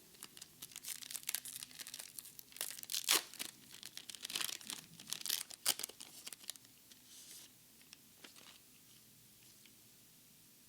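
Foil Pokémon card booster pack being torn open and its wrapper crinkled: a run of sharp crackles, loudest in the middle, that dies away after about seven seconds.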